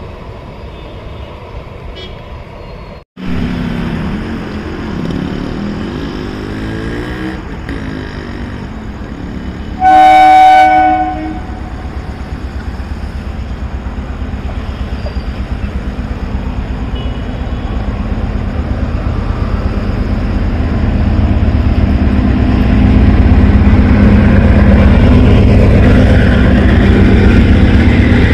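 A passenger train approaching and sounding one steady horn blast of just over a second, the loudest thing heard. It then runs past close by with a low rumble that grows louder and a fast, even clatter of its wheels on the track.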